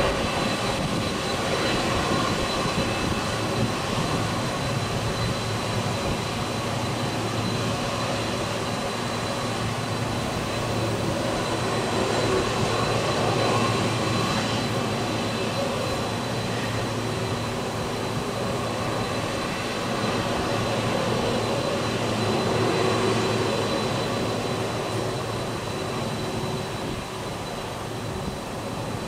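Jet engines of a Boeing 767 airliner running steadily, a low rumble with a thin high whine held over it, swelling and easing slightly.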